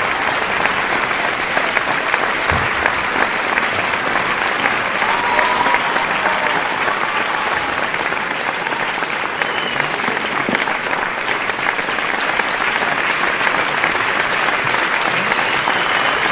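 A crowd applauding: many hands clapping in a dense, steady patter at an even loudness, with a few faint calls rising above it now and then.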